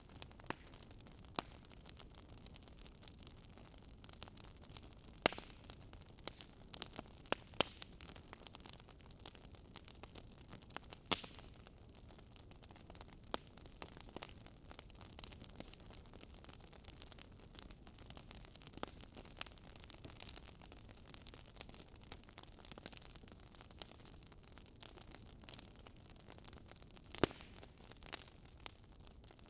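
Fireplace fire crackling: irregular sharp snaps and pops, a few louder than the rest, over a faint steady hiss.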